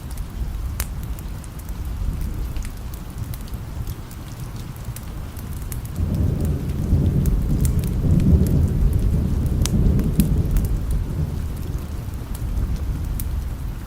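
Steady rain with scattered sharp ticks. About six seconds in, a low rolling thunder rumble starts suddenly, swells, then dies away near the end.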